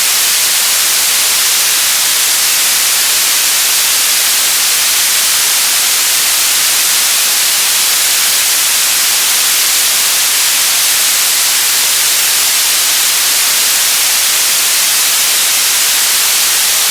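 Synthetic white noise: a loud, steady hiss that does not change, with most of its energy in the highs.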